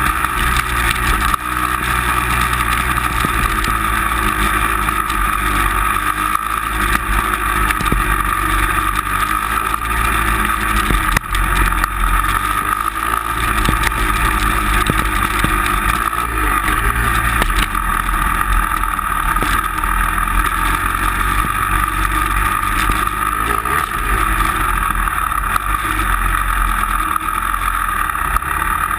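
A motor vehicle running steadily, with a constant low rumble and an even whine, and many small knocks and rattles throughout.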